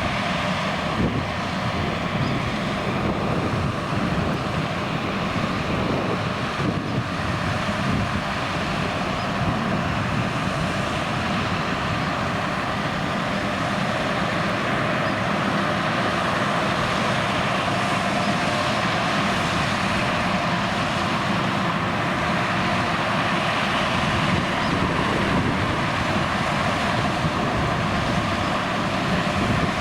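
John Deere X9 1100 combine harvester running steadily while combining oilseed rape, its engine and threshing machinery giving a constant drone with a steady whine.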